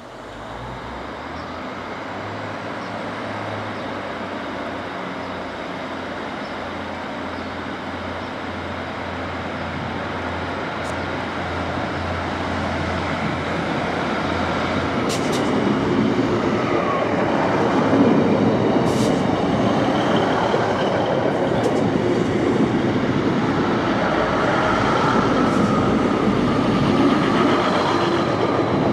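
A train running along the line and growing steadily louder as it comes closer, with wheel-and-rail noise. A low steady hum runs through the first half, and a few sharp clicks come in the second half.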